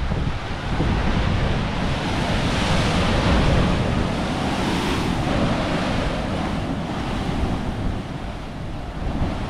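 Ocean surf breaking against a rocky sea cliff, with wind buffeting the microphone.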